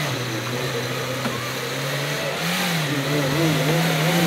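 Suzuki Jimny engine running hard under load as the four-wheel-drive crawls up a steep dirt slope. Its note holds steady, rises briefly about halfway through, and grows louder toward the end.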